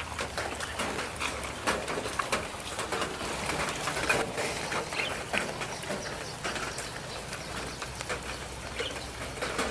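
Tropical rain falling steadily, with drops tapping irregularly close to the microphone and a bird calling now and then.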